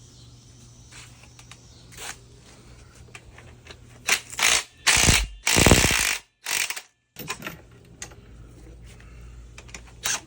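Hand ratchet and metal tools working on an engine stand: light clicking, then a burst of loud metallic clanks and scrapes about four to seven seconds in.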